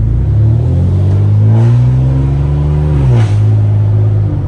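Catless, straight-piped 2015 Ford Taurus accelerating hard: the engine and exhaust note climbs steadily in pitch for about three seconds, then falls sharply and holds a steady drone.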